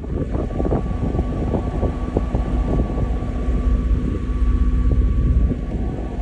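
Strong storm wind buffeting the microphone: a heavy, loud low rumble with constant crackling.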